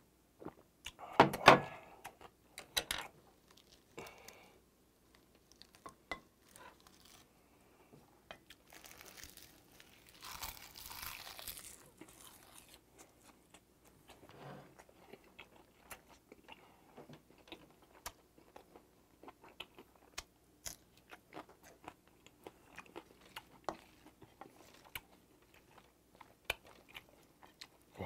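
Close-miked chewing and mouth sounds of a person eating bibimbap: many small sharp clicks and crunches, with a louder burst about one to two seconds in and a longer hissy stretch near the middle.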